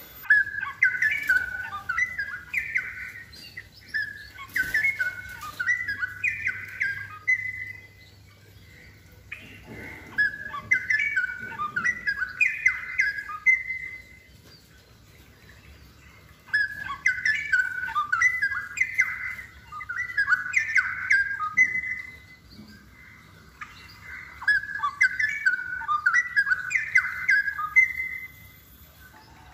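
Straw-headed bulbul (cucak rowo) singing loudly and often: four rich, bubbling warbled song phrases, each a few seconds long with short pauses between them.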